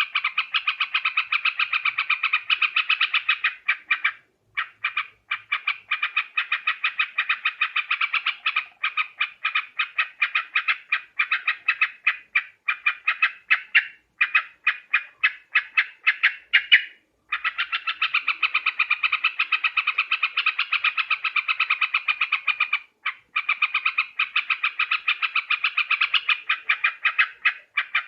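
Trucuk bird (yellow-vented bulbul) calling: a continuous chatter of short, rapid, harsh notes, several a second. It breaks off briefly about 4, 17 and 23 seconds in.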